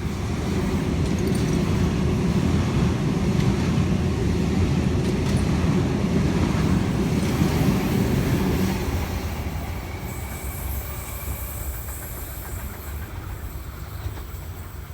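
Sydney Trains Waratah (A-set) electric train running through the station: a loud rumble of wheels on the track for about nine seconds, then fading away as it leaves.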